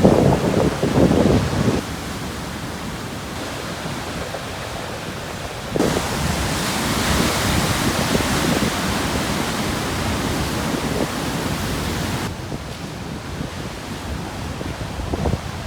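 Atlantic waves breaking on a rocky shore at high tide: a heavy low crash dies away about two seconds in, then a second wave sets in about six seconds in with a long hissing wash that drops away about twelve seconds in.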